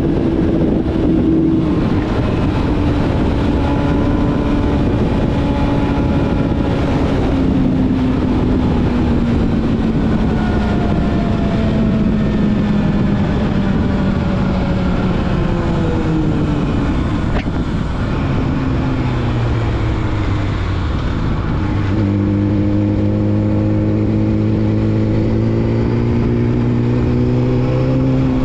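Yamaha YZF-R6 inline-four with a full-system exhaust, heard from on the bike at speed, with wind rush. The engine note falls slowly for the first fifteen seconds or so as the bike slows, shifts around two-thirds of the way through, then holds a steady note that climbs gently.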